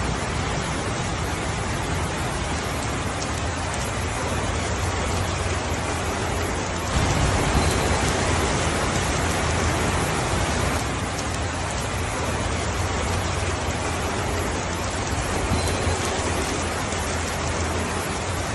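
Steady heavy rain, a dense even hiss with a low rumble underneath, swelling louder from about seven to eleven seconds in.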